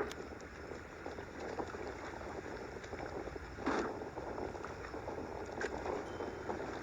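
Steady low background noise, like wind on an outdoor microphone, with a short louder sound right at the start and another a little under four seconds in.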